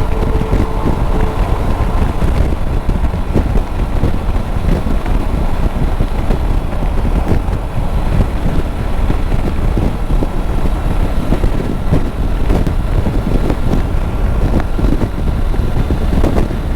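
Steady rush of wind on the rider's microphone in gusty crosswinds, over the drone of a Triumph Tiger 900 three-cylinder motorcycle cruising at highway speed.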